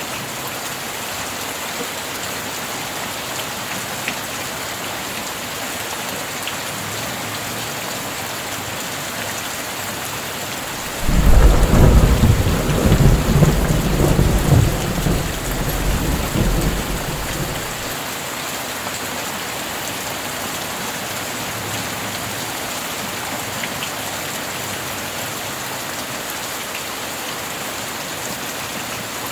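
Steady heavy rain, with a loud thunderclap about a third of the way in that rumbles deeply for several seconds and fades.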